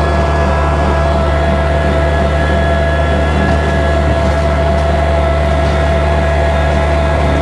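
Kubota tractor's diesel engine running steadily while bush hogging, a constant hum with a steady whine above it.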